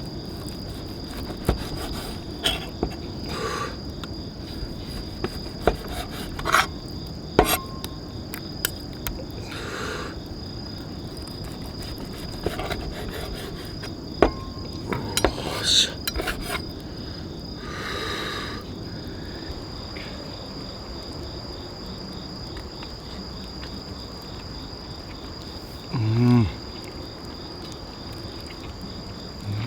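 Insects chirring steadily in a high, continuous trill, with scattered clicks, knocks and light clatter of handled cookware and utensils in the first two-thirds. A short low hum rises and falls near the end.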